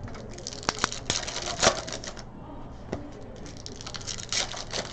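Trading card packs and cards being handled: a quick run of clicks and crinkles as packs are torn open and cards slide against each other, with a few sharper snaps.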